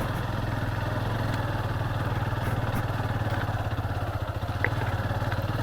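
Motorcycle engine running steadily at low revs, its pitch holding even without revving.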